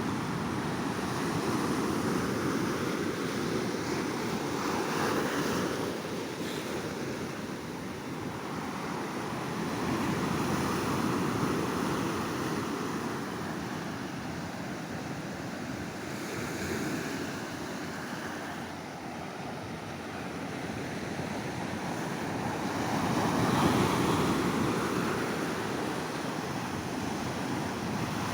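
Ocean surf on a beach: waves breaking and washing up the shore in slow swells every several seconds, with some wind on the microphone.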